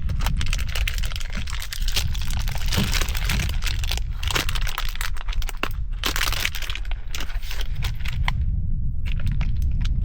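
Campfire crackling and popping with irregular sharp snaps over a steady low rumble, mixed with the crinkle of plastic food packaging being handled.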